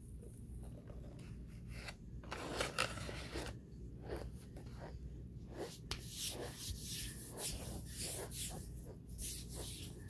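Close-up chewing of a mouthful of Argo starch powder: a run of short, dry crunches and mouth smacks, with a longer crunching stretch about two seconds in and quick crunches coming thick and fast in the second half.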